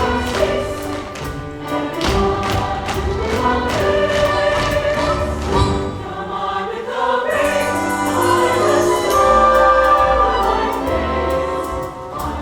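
A chorus singing with an orchestra in a stage musical, with sharp thuds on the beat in the first few seconds.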